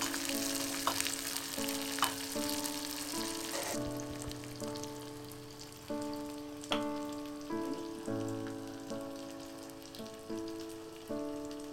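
Shallots sizzling as they fry in a small steel pan, with the spoon clicking against the pan as they are stirred; the sizzle drops sharply about four seconds in. Gentle instrumental background music plays throughout.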